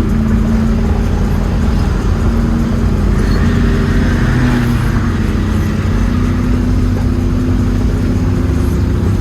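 Car engine running loudly at fairly steady revs, its pitch shifting up and down a little.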